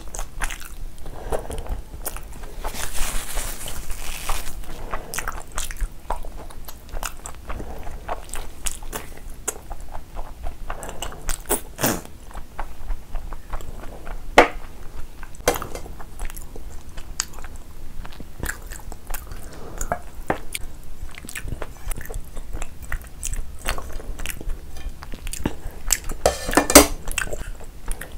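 Close-miked chewing and biting of mutton curry and rice eaten by hand: a steady run of wet mouth smacks and sharp clicks, with a few louder smacks about twelve seconds in, around fourteen seconds, and near the end.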